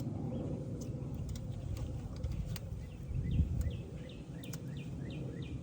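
Low rumbling noise with a few light clicks and a dull bump about halfway through. Over the second half a bird sings a quick series of short, falling chirps, about four or five a second.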